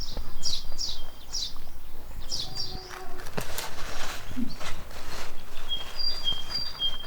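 Small birds chirping: a quick run of short descending chirps, about two a second, with a few sharp knocks around the middle. Near the end a bird gives alternating high and lower whistled notes.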